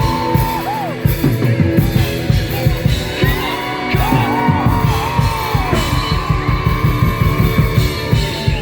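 Live rock band playing on the Holiday Train stage: a steady drum beat under electric guitar, with long held and bending high notes from the singer or lead guitar.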